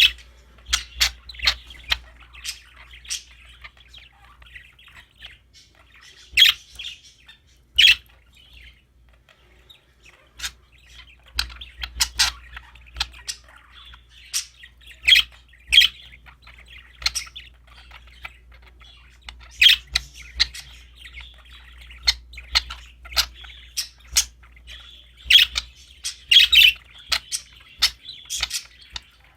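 Budgerigars (parakeets) chirping and chattering: a constant warble of twittering broken by many short, sharp chirps and squawks at uneven intervals.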